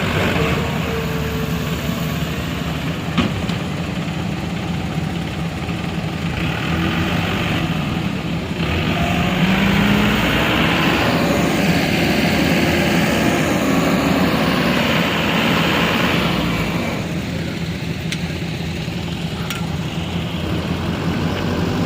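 A heavy vehicle's engine running steadily, louder for a stretch in the middle with rushes of hiss coming and going.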